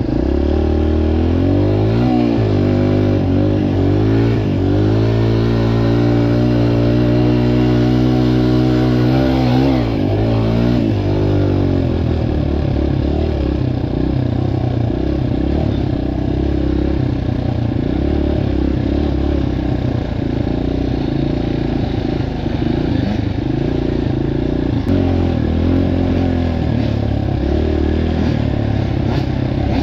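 Dirt bike engine revving, its pitch climbing and dropping repeatedly through the first dozen seconds or so, then running more evenly at lower revs.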